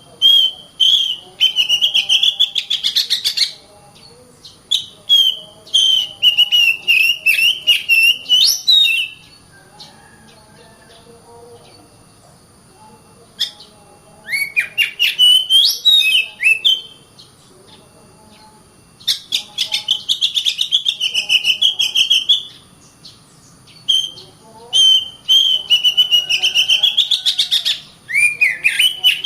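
Oriental magpie-robin (kacer) singing hard, in loud phrases of rapid, repeated whistled notes a few seconds long, with pauses of a few seconds between phrases.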